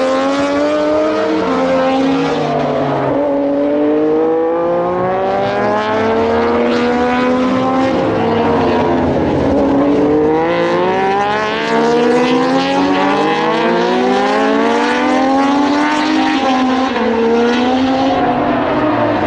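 Several Moto2 racing motorcycles with Triumph 765 cc three-cylinder engines running together on track, their engine notes overlapping and rising and falling in pitch as the riders accelerate, change gear and slow for corners.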